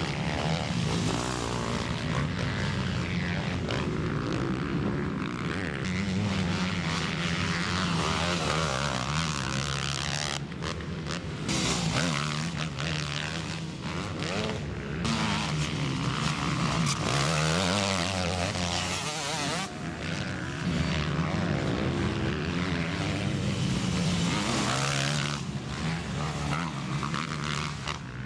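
Motocross motorcycle engines racing, their revs rising and falling continuously through gear changes and throttle work, with a few brief drops in level.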